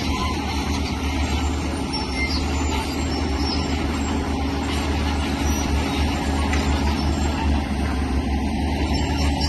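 Heavy diesel earthmoving machinery, a bulldozer or excavator, running steadily under load with a constant low engine drone.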